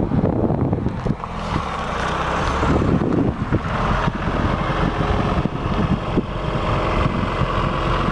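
1988 Pontiac Fiero's engine running steadily, with a low rumble beneath the engine note.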